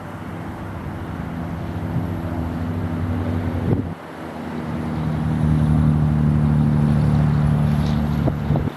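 A steady low engine drone with several humming pitches, growing louder; it breaks off suddenly about four seconds in, builds again, and cuts off at the end. Under it is a steady hiss of background noise.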